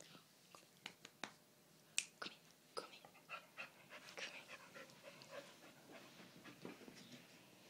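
A dog moving about close to the microphone: a run of sharp clicks in the first few seconds, then softer scuffling and breathing sounds.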